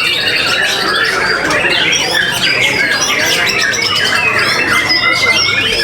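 Many caged songbirds singing at once in competition: a dense, unbroken mass of overlapping trills, chirps and whistled glides.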